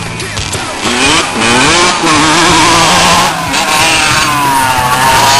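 Honda CR85's 85 cc two-stroke engine revving up and down as the dirt bike is ridden, its pitch rising and falling repeatedly. It gets louder about a second in.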